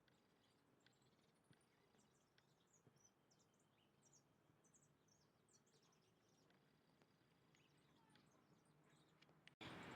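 Faint chirps and short high calls of several small birds over a low hiss. Near the end the sound cuts off abruptly and is replaced by a louder, steady background noise.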